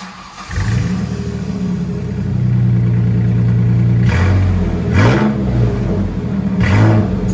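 Ford Ranger 3.0L V6 with a Y-pipe, dual exhaust and cherry bomb glass pack mufflers, starting up about half a second in and idling. Three short blips of the throttle come in the last few seconds.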